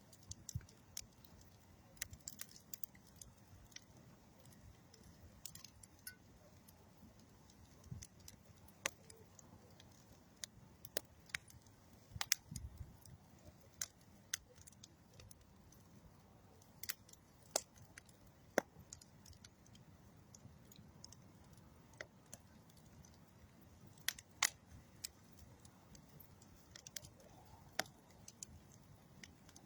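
Campfire of old railroad wood and dead tree wood crackling: irregular sharp pops and snaps, a few louder ones, over a faint steady low background.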